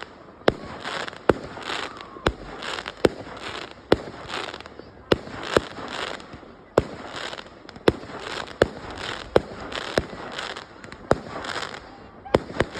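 Fireworks display: a steady run of sharp bangs, a bit more than one a second, with crackle and fizz filling the gaps between them.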